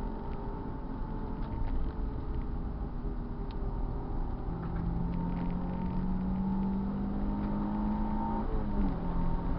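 Car engine running steadily under way, its note holding a constant pitch, then dipping briefly and picking up again near the end.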